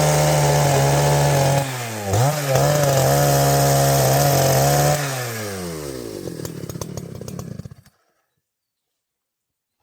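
Two-stroke chainsaw held at high revs, easing off briefly about two seconds in, then revving high again. About five seconds in the revs fall away and the engine winds down unevenly, and the sound cuts off abruptly near eight seconds.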